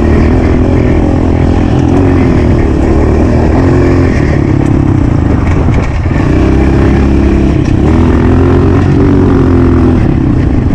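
Honda CRF125 dirt bike's single-cylinder four-stroke engine, ridden hard, its pitch rising and falling as the throttle is opened and closed, with a brief drop about six seconds in.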